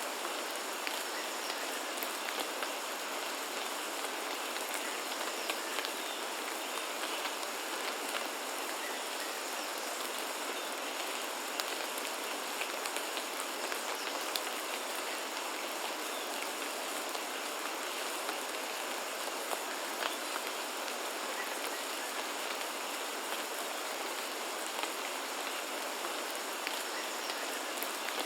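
Steady rain falling on foliage in a rainforest, an even hiss with scattered drop ticks.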